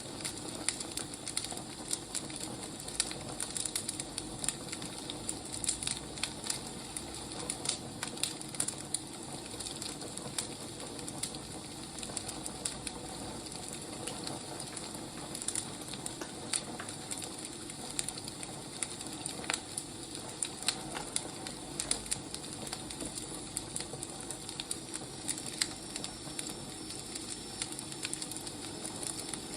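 Wood fire crackling: a steady hiss with frequent, irregular sharp pops and snaps from the burning firewood.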